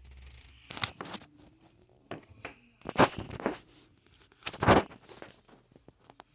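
A few short, noisy scrapes, the loudest about three seconds in and again near five seconds in.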